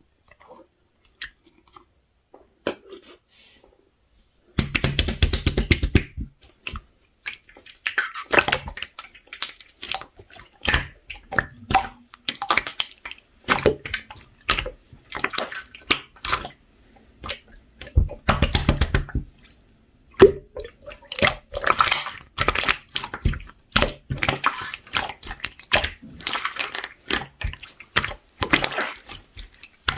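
Hands squishing, stretching and folding mixed clear slime: quick runs of sticky clicks and wet pops in bursts, starting about four seconds in after a few faint clicks.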